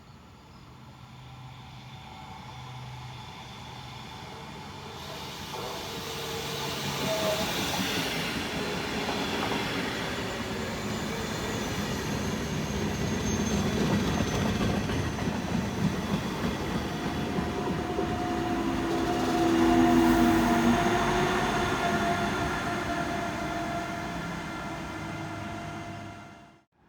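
Bombardier Twindexx double-deck train hauled by an EU47 electric locomotive moving through the station: the rumble of wheels on the rails builds over several seconds with steady whining tones over it, is loudest about twenty seconds in, then cuts off suddenly near the end.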